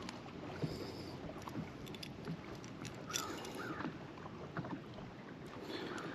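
Kayak noise on the water: a steady wash of water and handling sounds with scattered small clicks and knocks.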